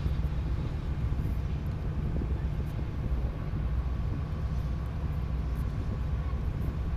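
Tugboat's diesel engine running steadily, a constant low rumble with a faint steady whine above it.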